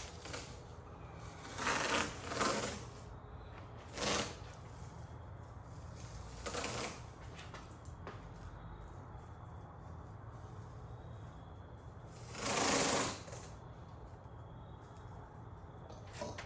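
Tape being pulled off the roll in several short rasping rips, the longest and loudest about a second long near the end, over a steady low hum.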